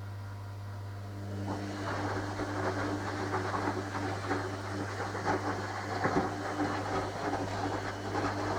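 Washing machine running: a steady low hum, then about a second and a half in a louder motor tone joins it with a rough, fluttering rush of noise.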